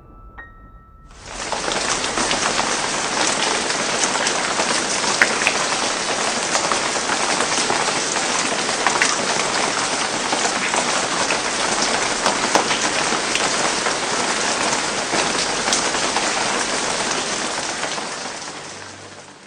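Heavy rain pouring onto hard surfaces: a dense, steady hiss with scattered sharp drop ticks. It swells in about a second in and fades away near the end.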